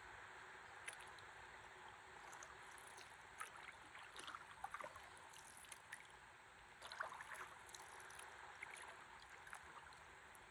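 Faint river water lapping and trickling against a stand-up paddleboard, with small splashes and drips in clusters around the middle.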